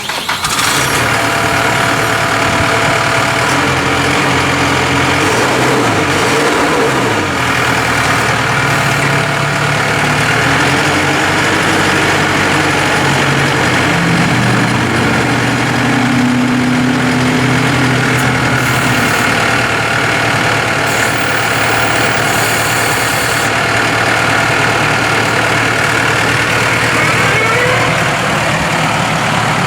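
New Holland T4.75 tractor's four-cylinder turbo diesel engine idling steadily, its pitch shifting slightly a few times.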